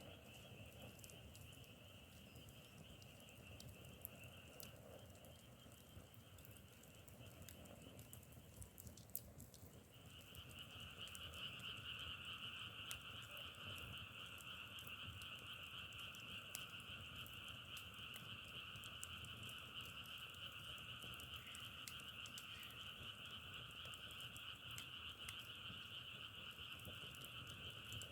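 A dense chorus of many frogs calling together, a steady crackling sound like burning firewood. The chorus is fainter at first, dips briefly about a third of the way in, then comes back louder and holds steady.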